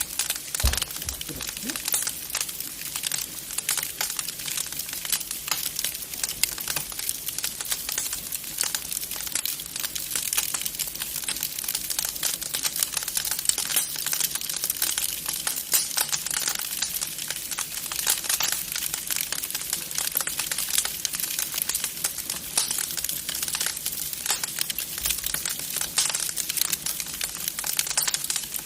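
Wood fire crackling in a fireplace: a steady, dense stream of small pops and snaps.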